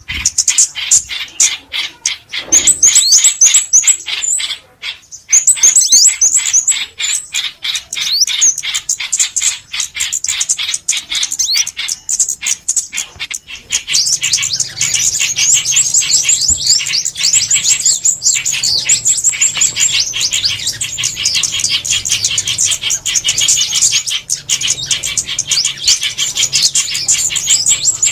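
Small songbirds twittering in a fast, dense stream of high chirps and trills, with short breaks near the start and again around the middle, growing fuller from about halfway. It is a bird-call lure recording of the kind played to draw white-eyes, bulbuls and sunbirds to glue traps.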